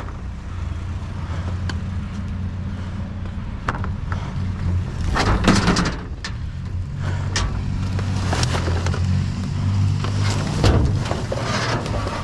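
A truck engine running with a steady low hum, its pitch shifting slightly partway through, with several scattered knocks and rattles over it.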